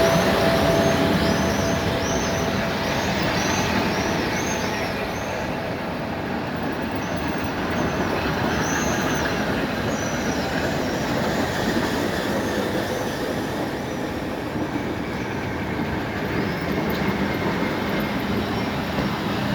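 Electric suburban train running along the rails with a steady noisy rumble of wheels and cars. Short high squeals recur about twice a second through roughly the first half, and a steady tone fades out in the first few seconds.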